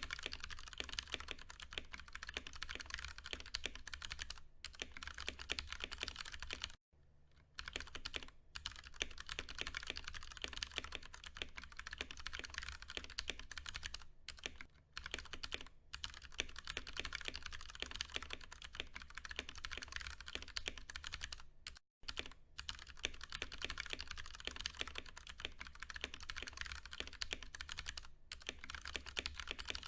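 Continuous fast typing on a Ducky One 2 Mini mechanical keyboard with Cherry MX Brown tactile switches: keystrokes in quick succession, broken by a couple of brief pauses.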